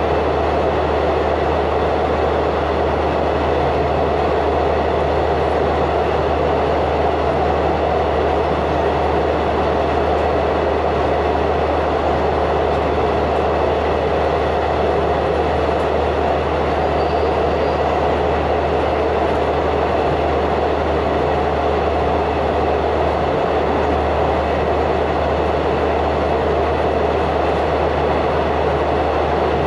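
Passenger train running, heard from inside the carriage: a loud, steady rumble and rush of wheels and running gear that does not change.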